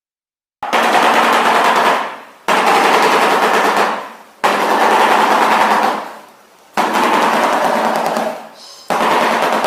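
Shoebill clattering its bill: five bouts of rapid, machine-gun-like rattling, each lasting about one and a half to two seconds, with short pauses between.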